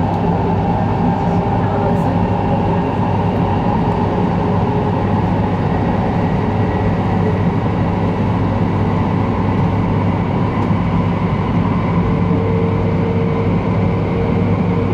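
Steady cabin noise of an E2-series Shinkansen running at speed: an even rumble with a steady hum underneath. A higher steady tone joins in about twelve seconds in.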